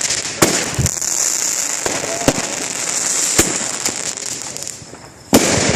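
Consumer fireworks going off: a continuous crackling hiss punctuated by sharp bangs every second or so, with a brief lull just before a loud bang near the end.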